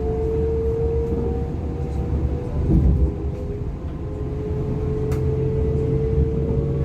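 Interior running sound of a DB Class 425 electric multiple unit: a steady low rumble of wheels on the rails under the electric traction motors' whine, which slowly rises in pitch as the train gains speed. A heavier low thump about three seconds in and a sharp click near the five-second mark.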